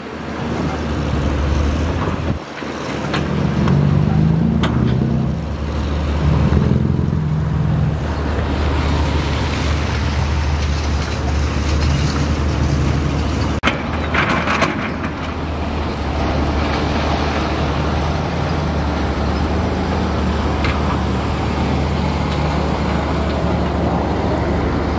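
Diesel engine of a heavy excavator running with a steady low hum, louder for a few seconds near the start as it works. About halfway through comes a brief metallic rattle.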